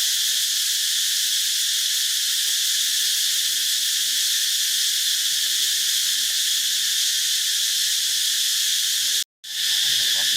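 Steady, loud chorus of insects droning without a break. It cuts out completely for a moment about nine seconds in, then carries on.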